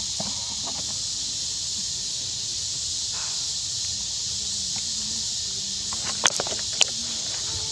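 A steady high hiss, with a few sharp clicks about six to seven seconds in.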